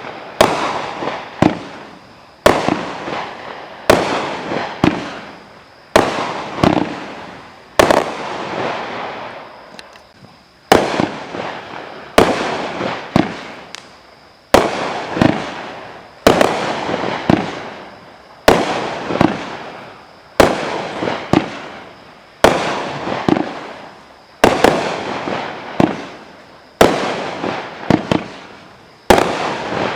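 Consumer 500 g fireworks cake firing in a steady string of shots, one sharp bang about every second or so, each followed by a fading rush of noise from the bursting shell.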